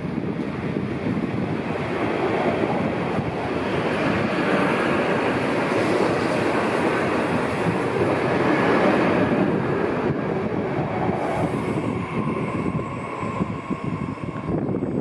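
A TER regional multiple unit pulling into the station past the platform. The rumble of its wheels and running gear is loudest about eight or nine seconds in, and a thin wheel squeal joins in for a few seconds after that.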